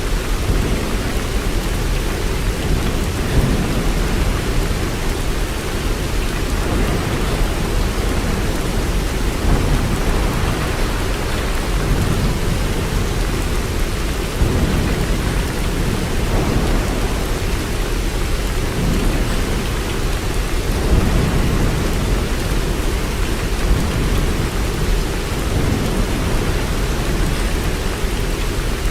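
Steady, continuous rainfall: an even hiss with a deep low rumble underneath that swells and eases slowly.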